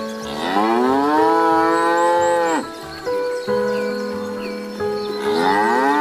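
Water buffalo mooing twice over background music. The first call is long, rising in pitch, holding, then falling off sharply about two and a half seconds in. A second call begins near the end.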